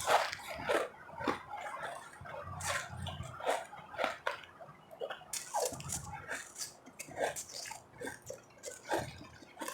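Ice being chewed and crunched close to the microphone: irregular sharp crackles and clicks with a few softer, muffled chewing swells.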